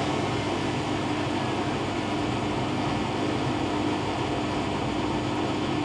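Hoover WDYNS654D slim washer dryer running at high speed, most likely its drum on a fast spin: a steady, loud whir with a low hum.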